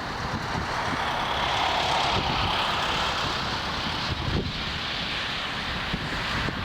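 Jet airliner's engines passing low overhead on approach to land, a steady rushing whine that swells through the middle. Strong gusts buffet the microphone underneath.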